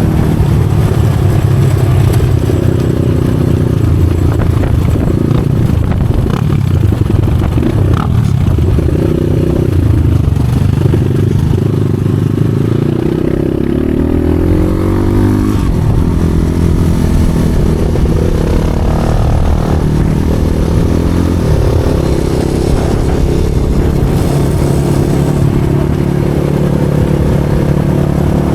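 Motorcycle engine running while riding off-road, its pitch rising and falling with the throttle, with a clear run-up in revs about halfway through.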